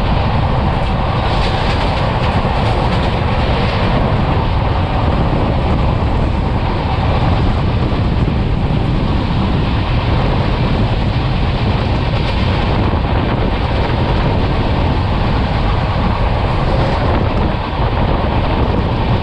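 Express passenger train running at speed, heard from an open coach door: a steady rumble of wheels on the rails with air rushing past, unchanging throughout.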